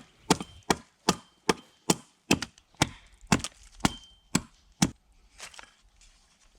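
Chopping into wood with a hand tool: a run of about eleven sharp blows, roughly two a second, some with a brief high ring, stopping a little before five seconds in.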